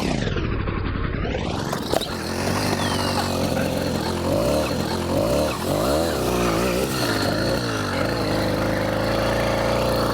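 80cc two-stroke engine on a motorised mountain bike revving, its pitch rising and falling several times, then held at a steady high pitch near the end. The sound is muffled for about the first second.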